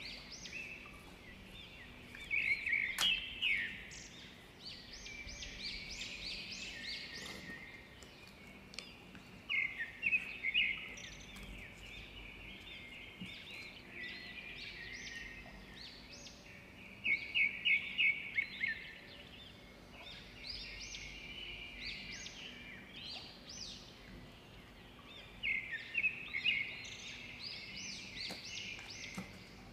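A songbird singing: phrases of rapid, high chirps and trills that come again every few seconds, over a faint steady background.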